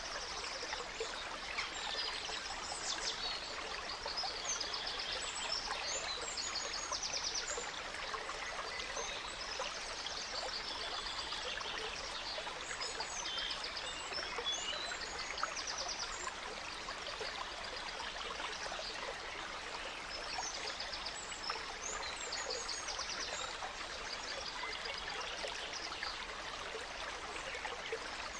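Gentle stream babbling steadily, with forest birds chirping and trilling over it, more busily in the first half.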